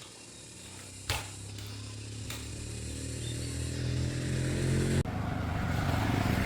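Tractor engine running after a sharp knock about a second in, growing steadily louder, then jumping suddenly to a louder, rougher sound about five seconds in.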